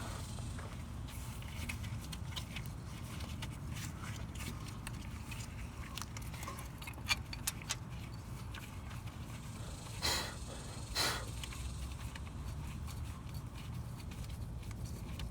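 Scattered light clicks and taps of bolts and metal parts being handled and threaded in by hand, over a steady low hum. Two short rushes of breathy noise come about two-thirds of the way through.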